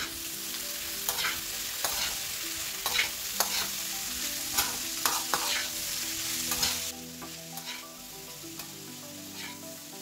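Sliced bitter gourd and potato frying in oil in a pan, sizzling, while a metal spatula stirs them with repeated scrapes and knocks against the pan. The sizzle turns quieter about seven seconds in.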